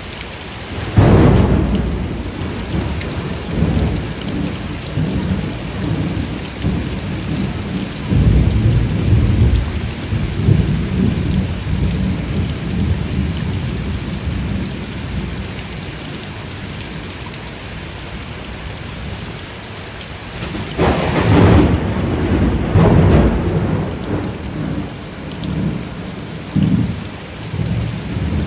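Steady heavy rain with thunder: a loud clap about a second in, deep rumbling that swells again several seconds later, and a second loud clap about three-quarters of the way through, rolling off into low rumbles.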